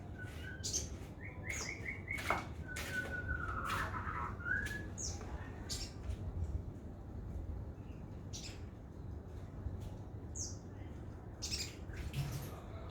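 A sogon trotol songbird calling in short chirps and high notes, with two brief rattling trills in the first few seconds and sharp clicks among the calls.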